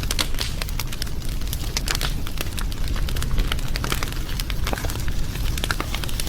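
Wood fire crackling, with many irregular sharp pops and snaps over a steady low rumble of the burning.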